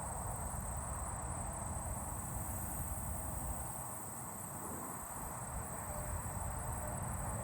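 Steady high-pitched chorus of crickets and katydids trilling without a break, over a low rumble of wind on the microphone.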